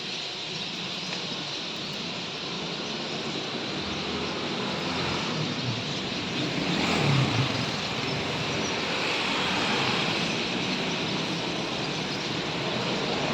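Road traffic going by, one vehicle passing loudest about seven seconds in, over a steady high-pitched hiss.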